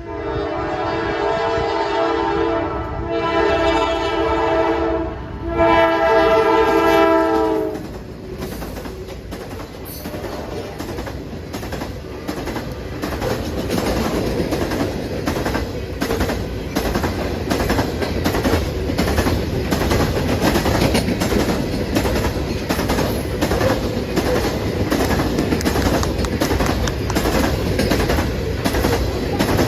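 Locomotive's multi-chime air horn sounding three long blasts, then a freight train rolling past with a steady rumble and rapid rhythmic clicking of wheels over the rails.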